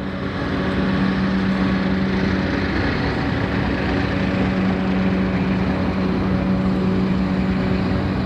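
Aircraft engine drone: a steady noise with a low, even hum, building up over the first second and then holding level.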